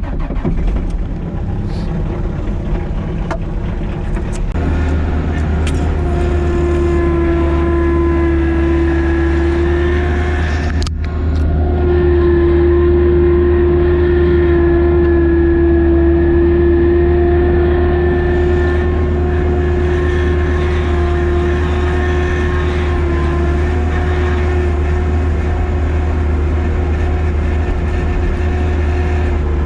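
Plow truck driving on the road: a steady engine drone with a low hum and a constant whine, briefly broken about eleven seconds in.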